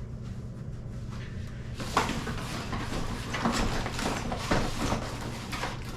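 A small cardboard box being opened and its packed contents handled: irregular rustling and light knocks of cardboard and packaging, starting about two seconds in, over a steady low hum.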